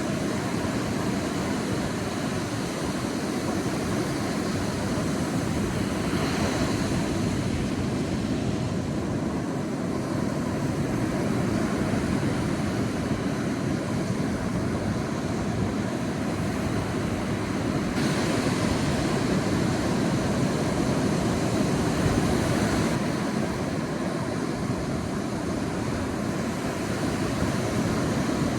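Sea surf washing onto a beach: a steady rushing wash of waves that swells a few seconds in and again for several seconds past the middle.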